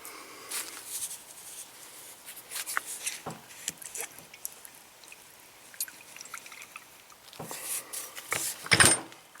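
Metal parts of a blown coilover shock being handled and worked on, giving scattered small clicks and taps, with a few louder knocks near the end.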